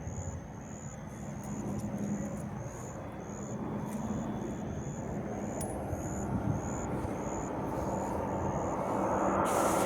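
Engine noise of an approaching vehicle or aircraft, a broad rumble that grows steadily louder over the last few seconds. A short high chirp repeats about every two-thirds of a second throughout.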